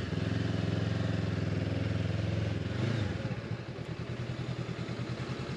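Honda motorcycle engine running at steady revs, then dropping to an idle with an even, pulsing beat about three seconds in as the bike comes to a stop.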